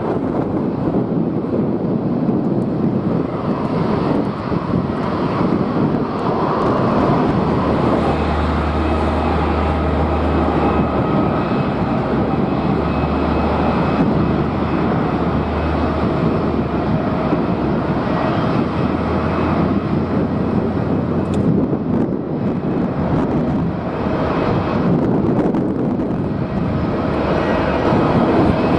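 Jet airliner engines running with a steady rumble and faint whining tones, with strong wind buffeting the microphone in a low rumble through the middle stretch.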